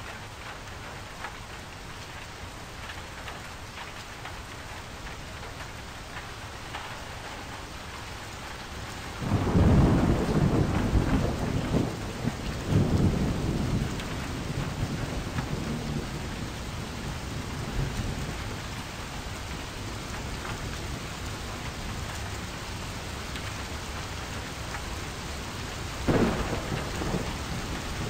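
Steady rain, with a long rumble of thunder about a third of the way in and a shorter rumble near the end.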